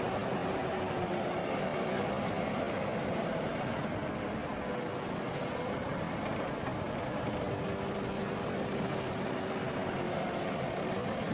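Heavy diesel earthmoving machinery engine running steadily, with a faintly wavering pitch and a single brief tick about halfway through.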